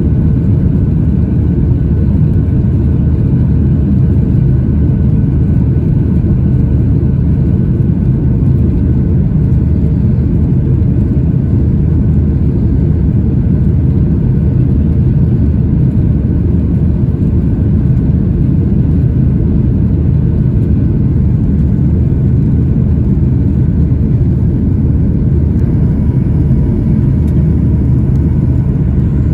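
Cabin noise of a Boeing 737-800 climbing out, its CFM56-7B turbofan engines running at climb thrust: a steady low rumble that does not change.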